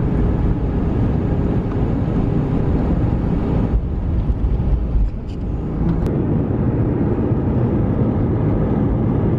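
Steady rumble of jet airliner cabin noise, from the engines and rushing air, heard from inside the cabin. It changes abruptly twice, about four and five seconds in.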